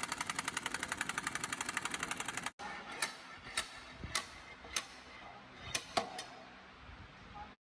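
Pneumatic impact wrench hammering in a fast, even rattle of about sixteen blows a second for about two and a half seconds, then stopping abruptly. After a short break come about seven separate sharp metal clinks, roughly half a second apart.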